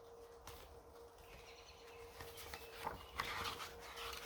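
Faint paper rustling and small handling clicks, growing louder from about halfway through, as a picture-book page is turned. A faint steady hum sits underneath.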